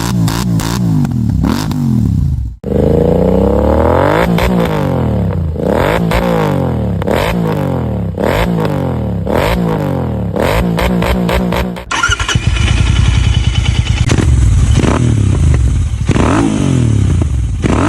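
Royal Enfield GT 650's 648 cc parallel-twin engine revved repeatedly through its exhaust, the revs rising and falling about once a second. Three separate recordings follow one another, with sudden cuts about two and a half and twelve seconds in.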